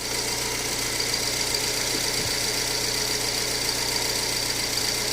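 Volkswagen Fox engine idling steadily and running normally, with no knock. It has had a complete rebuild for worn bearing clearance and low oil pressure, which cured the bearing knock.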